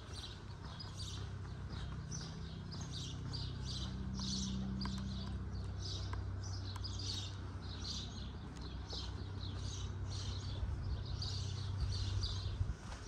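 Small birds chirping over and over, two or three short high chirps a second, over a low steady hum that cuts off suddenly near the end.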